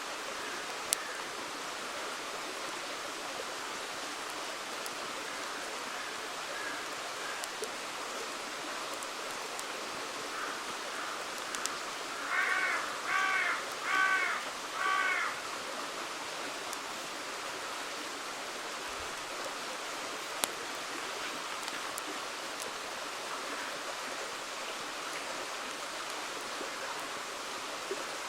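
River water rushing steadily, with a few sharp campfire crackles. About twelve seconds in, a crow caws four times in quick succession.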